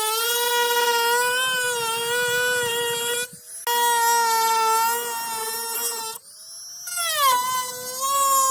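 A power tool's electric motor whining at a high, steady pitch, the pitch sagging and recovering as the tool is pressed into the work. The sound drops away briefly twice, about three seconds in and again around six seconds in.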